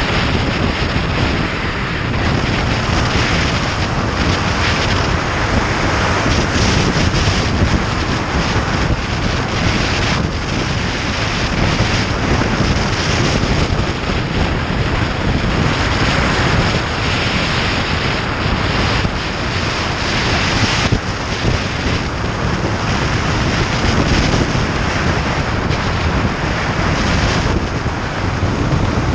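Motorcycle riding noise dominated by wind rushing over the microphone: a loud, steady roar of wind buffeting, with the bike's engine and road noise underneath.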